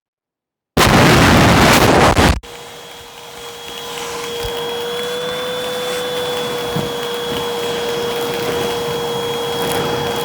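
Vacuum cleaner, silent for a moment, then a loud rush of noise for about a second and a half as it picks up crunchy debris. After that, the steady high whine of the motor alone, swelling up over the next couple of seconds and then holding.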